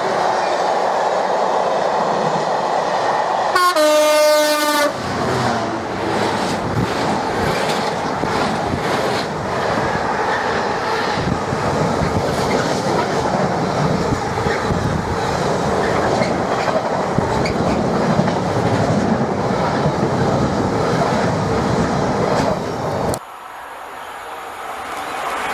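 A train sounds its horn in one blast of just over a second, then runs past with steady wheel-on-rail and clickety-clack noise. The noise cuts off suddenly about two seconds before the end, and a quieter rising noise follows.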